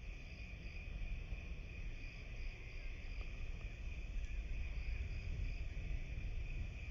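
A steady chorus of insects: a continuous high trill, with fainter short chirps above it coming in small groups, over a low rumble.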